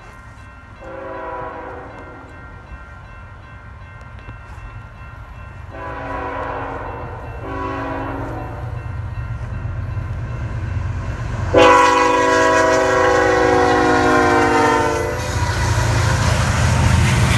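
A Union Pacific freight locomotive's multi-tone air horn sounding the grade-crossing signal, long, long, short, long, as the train approaches. The last blast is the loudest and longest. The train's rumble grows louder throughout, and the train passes near the end.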